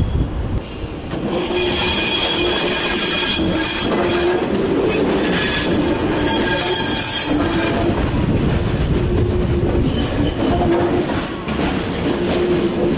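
Thalys high-speed train passing close on curved track: its wheels squeal high and shrill for most of the first eight seconds over the running rumble of the carriages, which then carries on with some clickety-clack from the rails.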